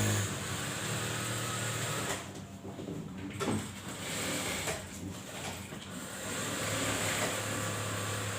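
Typical industrial sewing machine running, a steady motor hum with stitching noise that eases off twice before picking up again.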